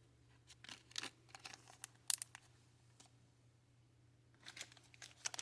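Bead packaging handled: crinkling and rustling with several short sharp clicks, the sharpest about two seconds in, and a denser stretch of rustling near the end.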